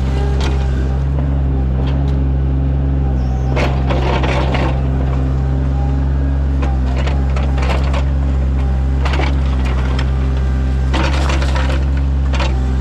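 Sany mini excavator's diesel engine running steadily under load while the bucket digs a ditch. Scraping and crunching of soil and roots comes in several bursts, the heaviest about four seconds in and again near the end.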